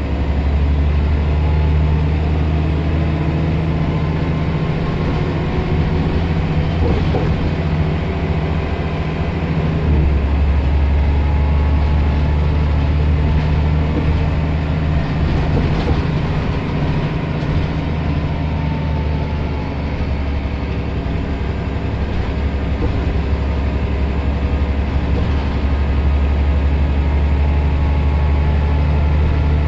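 Scania L94 bus's diesel engine running as the bus drives. Its note shifts about ten seconds in and again near the end.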